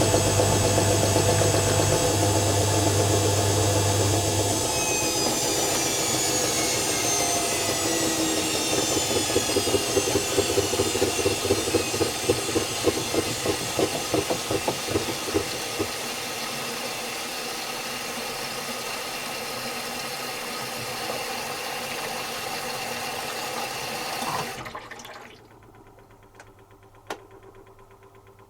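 Zanussi FC1000 washing machine running down from a spin. A low hum cuts out about four seconds in, and the motor's whine then falls steadily in pitch. The drum knocks rhythmically for several seconds as it slows, runs more evenly for a while, and then stops abruptly near the end, followed by a couple of faint clicks.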